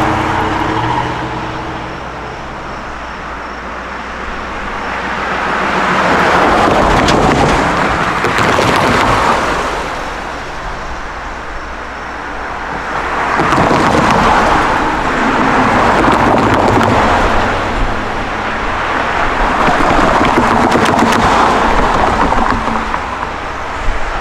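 Road traffic passing on a busy street, cars going by one after another. Tyre and engine noise swells and fades in waves several seconds apart, with an engine hum near the start.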